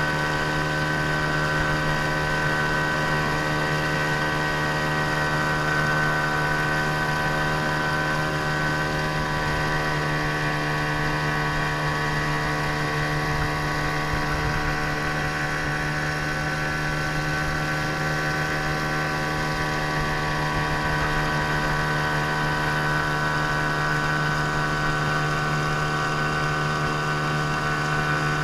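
A 15 hp outboard motor running at a steady speed, a constant even drone with no change in pitch.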